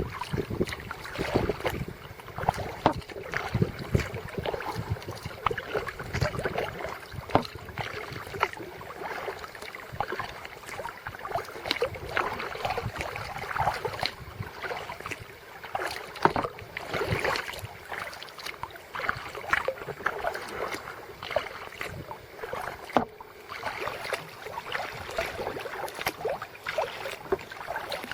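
Kayak paddling on a lake: an irregular stream of small splashes and drips from the paddle blades, with water lapping and trickling along the hull.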